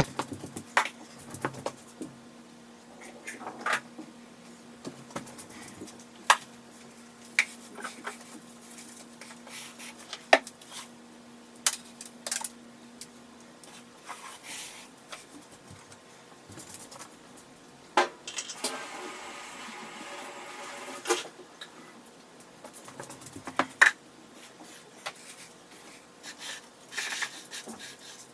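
Plant pots and small objects being handled and set down: scattered clinks and knocks, irregularly spaced, with a couple of seconds of scraping noise about two-thirds of the way through.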